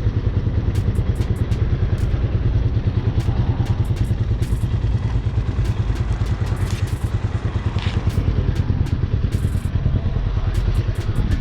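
Hawk 250 dual-sport motorcycle's single-cylinder engine idling steadily, with a rapid, even pulse to its exhaust note.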